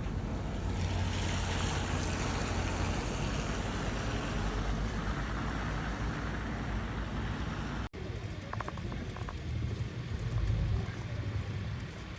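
Outdoor street ambience: a steady rumble and hiss of road traffic. It cuts off abruptly about eight seconds in to a quieter stretch with a low rumble that swells and fades.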